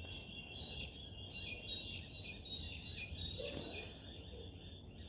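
Birds chirping steadily in the background over a faint low rumble of outdoor noise.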